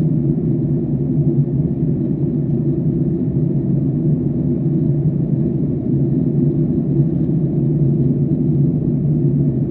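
Airliner cabin noise in flight: the steady low rumble of the jet engines and airflow.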